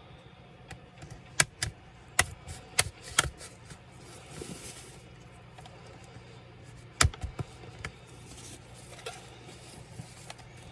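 A series of sharp clicks and light knocks from a Dell Latitude 3301 laptop and tools being handled during disassembly: about six in the first few seconds, then a louder pair about seven seconds in.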